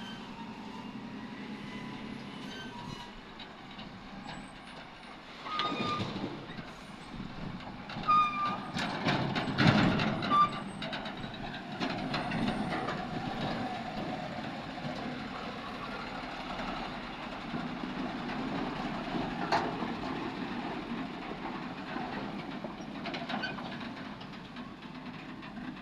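Heavy diesel machinery, an excavator and a tipper truck, running and working under load. A burst of loud metallic clanks and short squeals comes about six to ten seconds in, and another clank near the end.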